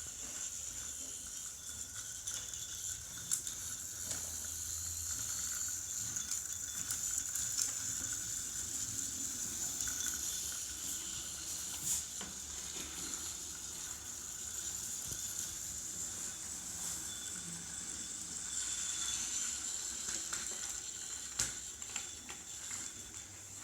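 Battery-operated wooden-railway toy trains running, their small electric motors and gears giving a steady high-pitched whir, with a few sharp clicks along the track.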